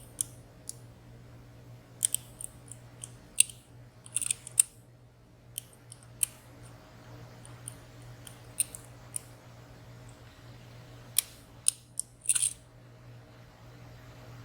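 Sparse, irregular small metallic clicks of a lock pick and tension tool working the pins and sliders inside a WSW W10 high-security padlock, with a few quick clusters of clicks. A faint steady low hum runs underneath.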